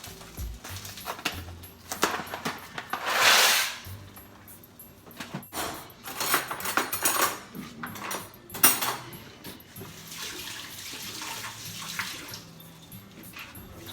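Kitchen work sounds: pots, lids and utensils clinking and knocking, with a short rush of noise about three seconds in and a busier run of clatter in the middle.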